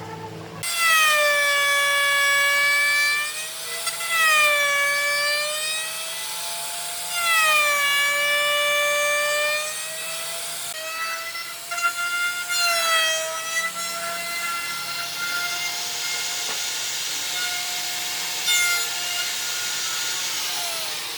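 Electric power tool working wood. Its motor whine starts suddenly just under a second in, then dips and recovers in pitch again and again as it takes load.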